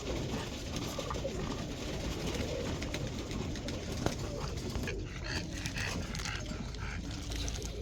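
Domestic pigeons cooing in a loft over a steady background of rustling and noise.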